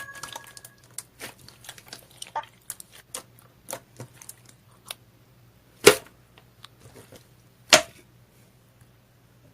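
Slime being squeezed and pressed by hand, giving irregular small clicks and crackles as air pockets burst, with two loud pops about six seconds in and shortly before eight seconds.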